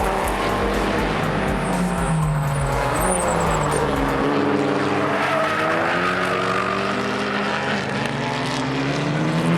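Production race car engines at racing speed, their pitch falling about two seconds in and climbing again through the middle as the cars come off and back onto the throttle.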